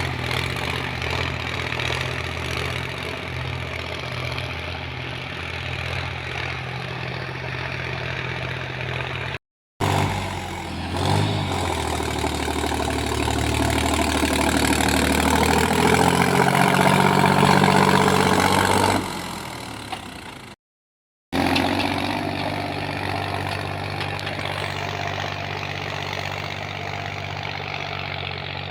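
Sonalika Tiger 745 III 4x4 tractor's diesel engine running, in edited takes separated by two brief silent cuts. It runs steadily, then louder in the middle with the engine speed rising and falling, then settles back to steady running.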